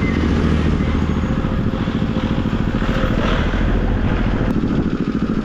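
Motorcycle engine running steadily under way, its firing pulses heard throughout.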